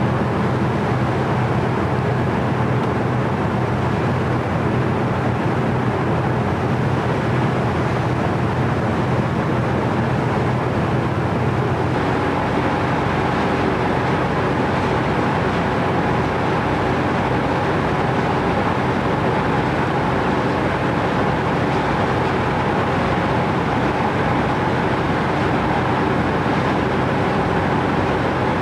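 Steady drone of a running vehicle engine, with a constant low hum and a higher steady tone joining about twelve seconds in.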